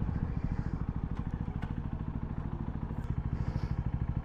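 CFMoto 300SR's single-cylinder engine running at low revs, a steady even low-pitched putter of about a dozen beats a second.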